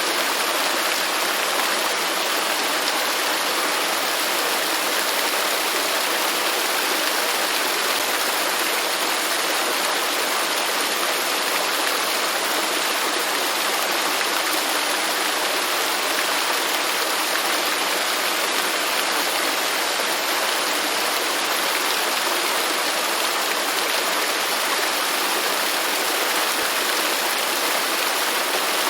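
Waterfall: water pouring and splashing in a steady, unbroken rush that does not change.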